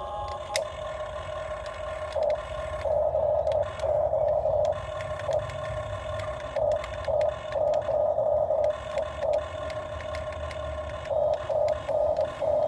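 Excavator working: a whine that swells in repeated short bursts over a steady low rumble.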